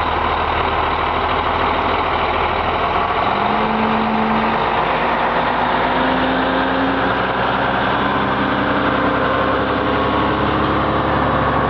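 A vehicle engine running steadily at a low hum; a few seconds in, a pitched engine note comes in and steps up in pitch.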